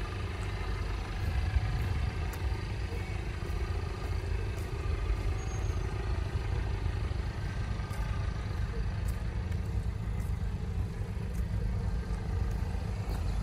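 Mercedes-Benz C200 coupe's engine idling: a steady low rumble that holds level, with no revving.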